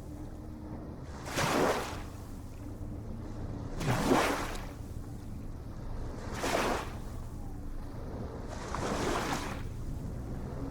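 Small ocean waves washing in, four short washes about two and a half seconds apart over a steady low rumble of surf.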